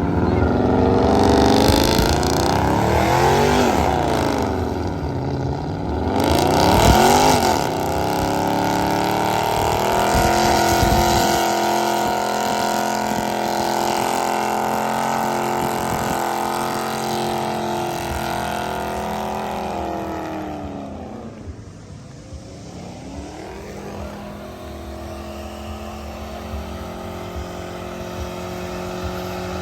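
Performance car engine revved hard twice, then held at high revs for about twelve seconds before falling away and building again near the end.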